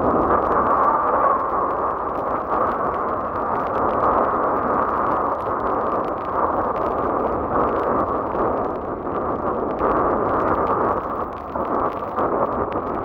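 Rough sea and strong wind: a dense, steady rush of breaking waves and wind, swelling and easing slightly in level.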